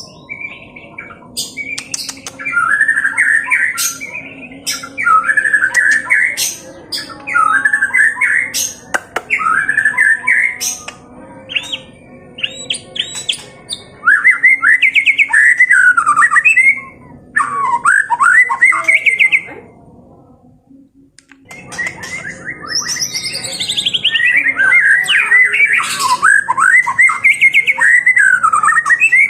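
White-rumped shama (murai batu) singing its aggressive 'fighting style' song: loud phrases of quick whistled and harsh notes, one after another. After a short pause about two-thirds of the way in, it sings a longer run of steeply falling notes.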